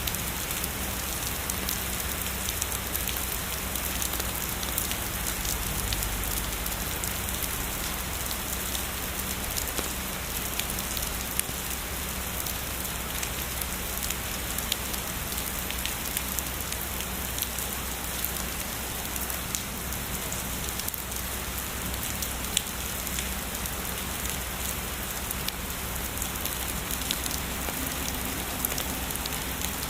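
Steady heavy rain: a dense, even hiss with many individual drops ticking sharply on a surface throughout.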